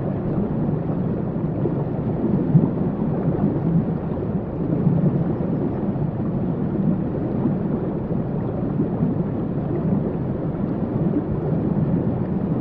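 Water rushing steadily, a deep, muffled rumble with little hiss.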